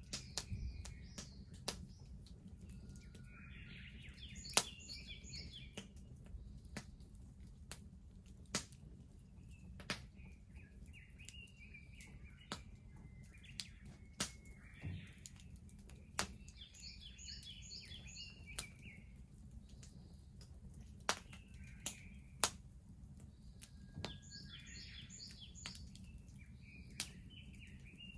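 Wood bonfire crackling with scattered sharp pops, while a songbird sings a short phrase of high notes that comes back about every seven seconds.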